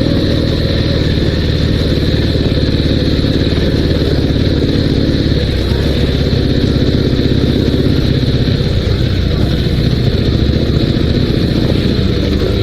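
Dnepr 16 sidecar motorcycle's 650cc boxer-twin engine running while the outfit is ridden slowly off the road, with small rises and falls in engine pitch.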